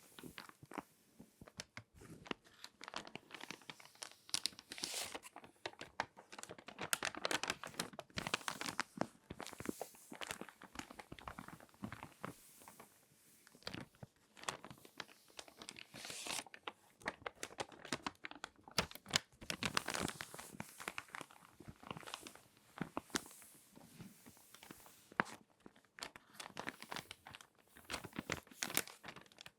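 Glossy magazine paper being folded and creased by hand: irregular crinkling and crackling, with clusters of sharp paper snaps.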